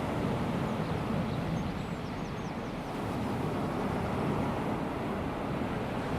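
Calm sea: small waves washing onto a sandy beach in a steady, low wash that eases slightly around two to three seconds in, with a few faint high chirps near two seconds in.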